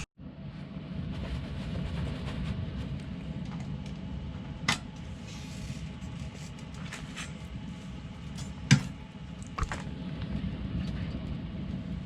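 Steady low hum of an idling truck engine, with a few sharp knocks and clatters, the loudest a little under nine seconds in, as wood and the stove are handled.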